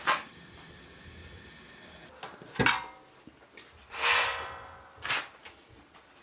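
Three sharp knocks about two and a half seconds apart, like things being set down or a cupboard or drawer being shut, with a short scraping rasp just before the last one.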